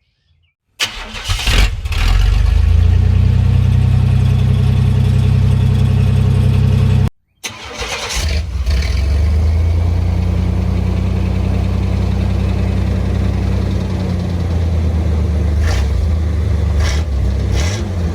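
Small pickup truck engine started and left idling, heard through its exhaust, then a hard cut to a second take of it starting and running on: a before-and-after comparison of the old factory exhaust and a new Cherry Bomb glasspack cat-back exhaust.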